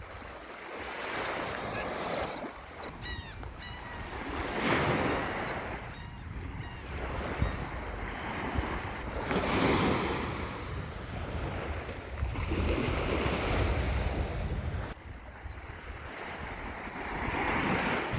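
Waves breaking and washing on a beach in surges every few seconds, with wind buffeting the microphone. A few short high bird calls come through now and then.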